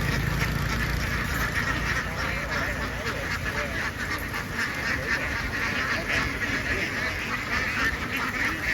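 A large flock of laying ducks quacking all at once in a dense, continuous chatter. A low rumble underneath fades out about two seconds in.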